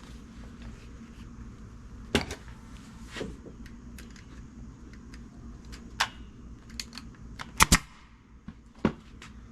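Staple gun fastening upholstery cover onto a pontoon boat seat: about six sharp snaps at irregular intervals, two of them in quick succession.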